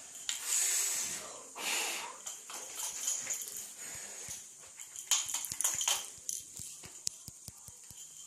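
Breathy puffs of a child blowing soap bubbles, three or four short blows, then a run of small quick clicks near the end.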